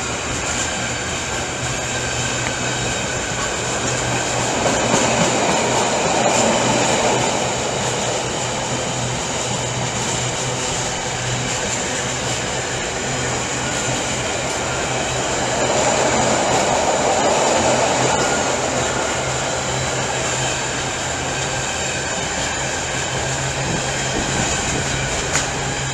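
Container freight train wagons rolling steadily past, a continuous rumble over a low steady hum. The rumble swells twice, about five seconds in and again around seventeen seconds.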